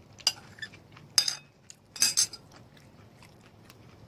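Cutlery clinking and scraping against a plate three times, about a second apart, as the last of the food is scooped up.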